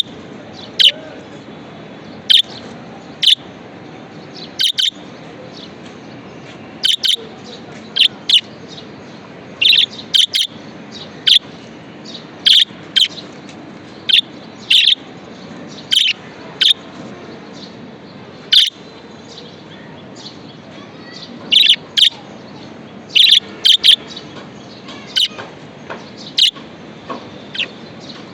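Budgerigar calling in short, sharp chirps at irregular intervals, some in quick pairs, over a steady background noise.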